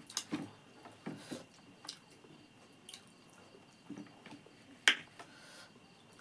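Close-up eating sounds: wet chewing and lip smacks as rice and chicken are eaten by hand, in scattered short clicks, with one sharp click just under five seconds in.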